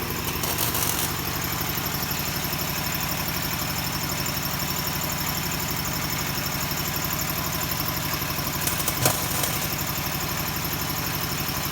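Welder running as an adapter plate is welded on: a steady hiss over a fine, rapid low hum, with brighter bursts of hiss in the first second and again about nine seconds in.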